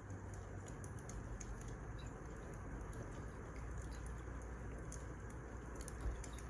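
Wood fire crackling: a steady low rush with scattered small pops and snaps throughout, and one louder low thump about six seconds in.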